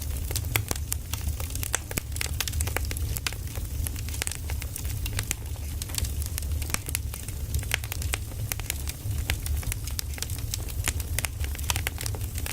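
Firewood burning, crackling and popping in quick, irregular snaps over a low, steady rumble of the fire.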